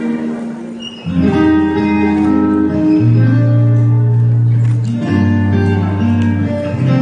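Instrumental band music with no singing: a held chord fades, then the full band with bass comes in about a second in, the bass note changing every couple of seconds.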